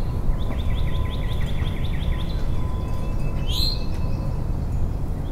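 Outdoor birds chirping: a quick trill of about a dozen repeated short notes, then a single sharp rising chirp about three and a half seconds in, over a steady low rumble.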